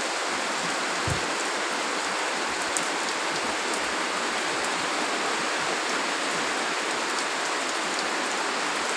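Heavy rain falling in a steady hiss, with scattered drop ticks and a brief low thump about a second in.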